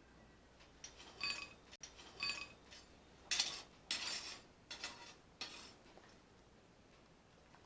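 Light metal-on-metal clinks from forge tools being handled: two ringing clinks about a second and two seconds in, then a few duller knocks and rattles, all fairly faint.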